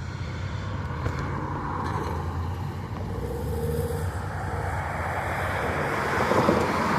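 A vehicle engine running with a low hum and a rushing road-traffic noise that slowly grows louder.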